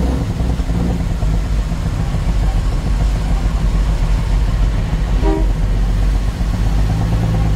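Truck engine running steadily with a heavy low drone while driving, with a short pitched tone about five seconds in.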